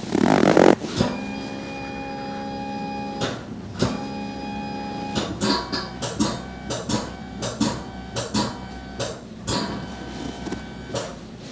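A small machine running: a brief loud rush, then a steady motor hum of several tones, then a string of sharp clicks and knocks about twice a second over the hum.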